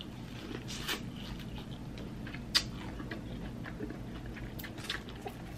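Close-miked eating sounds: quiet chewing with a few sharp mouth clicks and smacks spread through the moment.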